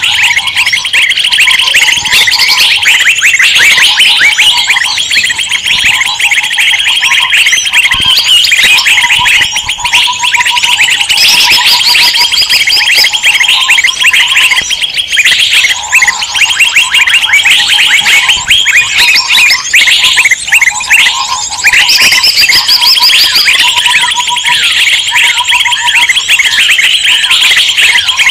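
A dense clamour of many small songbirds chirping and chattering over one another without pause, with a lower trill that repeats again and again underneath. It is a lure recording of noisy, agitated birds, such as bulbuls, played to draw wild birds in.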